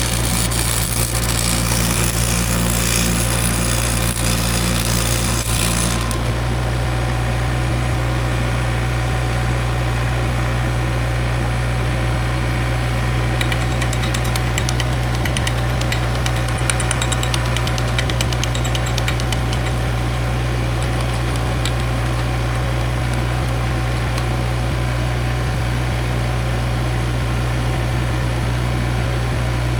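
An engine idling steadily, with a harsh high hiss over it for the first six seconds that stops abruptly.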